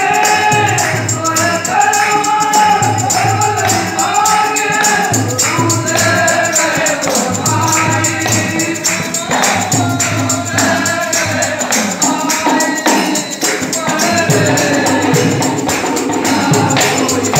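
Ektari bhajan: a solo singing voice over a fast, steady jingling hand-percussion rhythm, accompanied by the one-string ektara.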